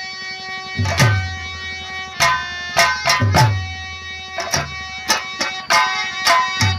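Instrumental Nautanki folk-theatre tune: a harmonium holds a melody while drums strike accented beats with low, booming decays, the strokes coming faster toward the end.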